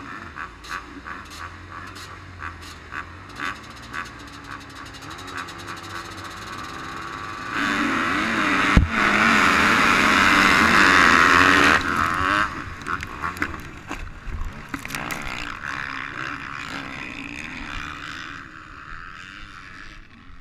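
Motocross bike engines racing off the start, swelling to a loud burst of engine noise for about four seconds near the middle, with one sharp thump within it.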